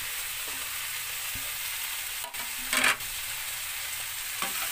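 Oil sizzling in a stainless steel wok as freshly added sliced bitter melon fries with sautéed onion and tomato. A brief louder knock or scrape comes just under three seconds in, and a smaller one near the end.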